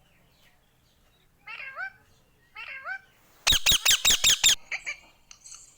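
Indian ringneck parrot calling: two short calls, then about three and a half seconds in a loud burst of about seven rapid harsh squawks, trailing off into fainter chirps.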